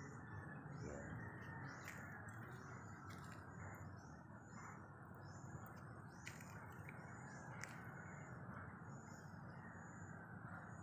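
Small birds chirping over and over, short high chirps about twice a second, over a steady low background rumble, with a few sharp clicks.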